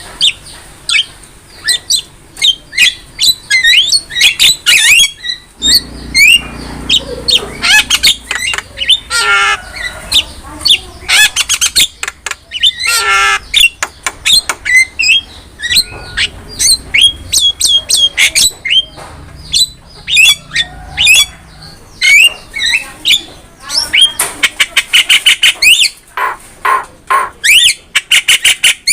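Javan myna singing a long, varied song of quick chattering notes, sliding whistles and harsh squawks, with fast rattling runs of repeated notes near the start and again near the end.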